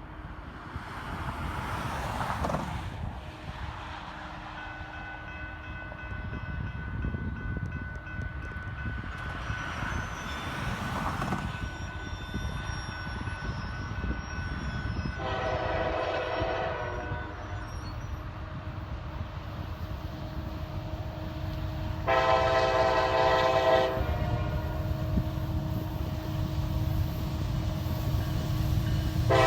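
Approaching diesel locomotive sounding its multi-chime air horn: two long blasts of about two seconds each, with a third starting at the very end, typical of a grade-crossing signal. Under them the low rumble of the train grows louder toward the end.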